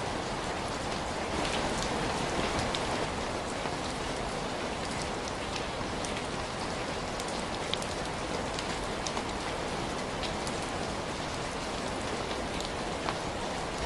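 Steady rain falling, a dense even hiss dotted with scattered sharp drop ticks.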